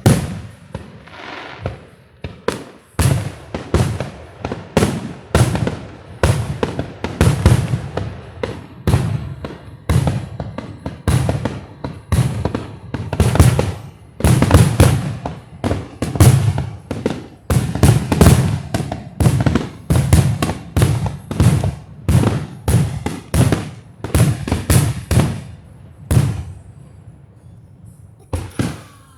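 Fireworks display in a dense barrage: aerial shells bursting in quick succession, several booms a second, loud, before stopping a few seconds before the end.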